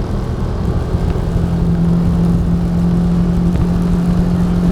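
A moving vehicle running steadily: a low rumble with a steady engine drone that grows stronger about a second in.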